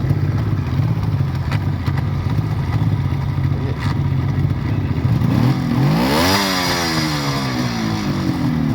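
1972 Suzuki GT750 'Water Buffalo' liquid-cooled two-stroke triple idling, then given one blip of the throttle about five seconds in; the revs rise for about a second and fall back slowly to idle.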